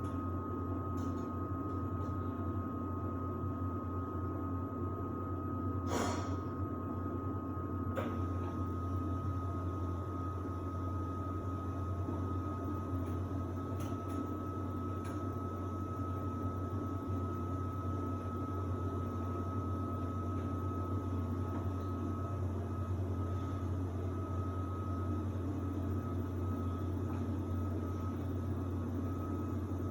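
Samsung WD70T4047CE washer-dryer running with a steady low hum and a faint steady high whine. There is a sharp click about six seconds in and a fainter one about two seconds later.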